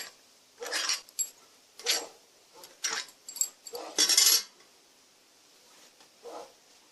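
Short scraping and clinking sounds of metal parts and tools being handled while an electric motor is taken apart, roughly one a second, the loudest about four seconds in.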